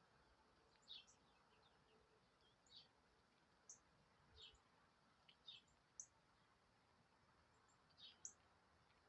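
Faint, short, high chirps from small birds, repeated irregularly about once a second.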